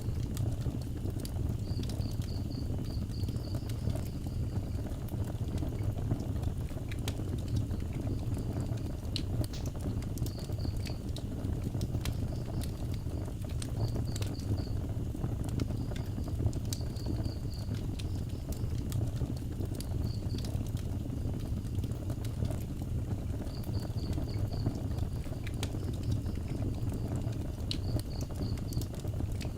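Outdoor wood fire burning, with scattered crackles and pops over a steady low rumble. An insect chirps high-pitched in short runs every few seconds.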